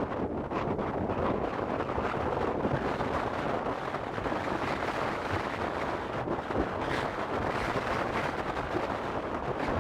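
Blizzard wind blowing hard and steadily, with a low rumble of gusts buffeting the microphone.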